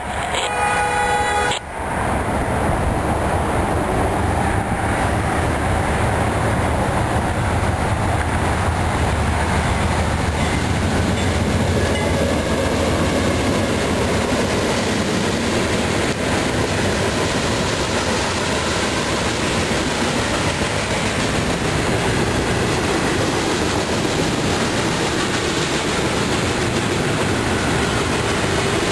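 CSX freight train passing close by at a grade crossing. A diesel locomotive's low engine rumble gives way to the continuous rolling noise of freight cars' wheels on the rails. A brief horn-like tone cuts off about two seconds in.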